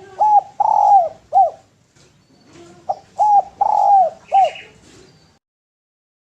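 A dove cooing: two phrases of four short, arched coos each, the second phrase starting about three seconds in.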